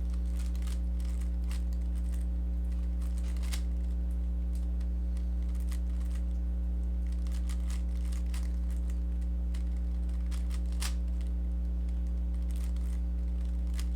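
Rubik's cube being turned by hand: scattered, irregular clicks of the plastic layers snapping round. They sit over a steady low electrical hum, which is the loudest thing throughout.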